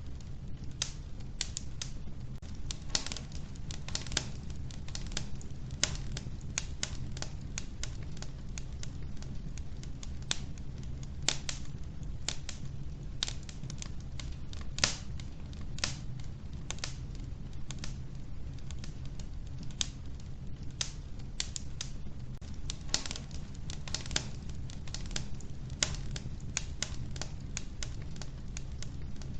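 Wood fire burning in an old wood-burning stove: irregular sharp crackles and pops from the logs, several a second at times, over a steady low rumble of the flames.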